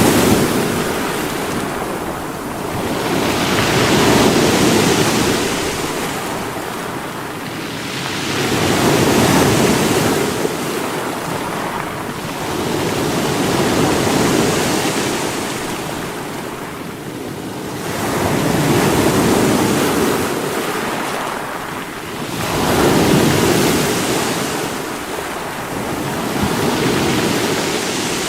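Sea waves breaking against rocks, a steady rush of surf that swells and falls back about every four to five seconds.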